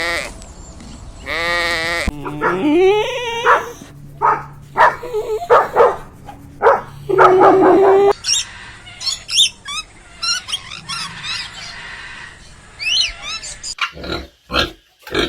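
Farm animals calling in a string of separate clips: a bleat early on, a run of short varied calls, then high chirping calls from about halfway, and a quick series of short sharp calls near the end.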